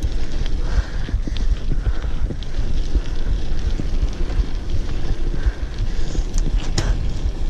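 Wind buffeting the microphone of a moving bicycle rider, a loud steady rumble, with a few sharp clicks and knocks near the end.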